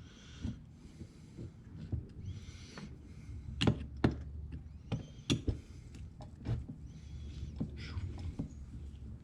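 Screwdriver and small metal parts clicking, knocking and scraping as the Phillips-screwed caps come off a 1972 Honda CB450 carburetor, with a few sharper knocks around the middle.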